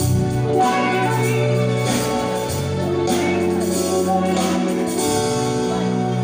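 Live band music with singing, a steady beat and sustained keyboard or vocal tones, played over a PA during a concert sound check.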